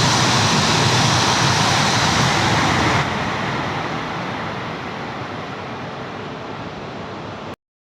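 Tohoku Shinkansen train passing through a station at high speed without stopping: a loud rush of air and rail noise that drops off suddenly about three seconds in as the end of the train goes by, then fades away. The sound cuts out abruptly near the end.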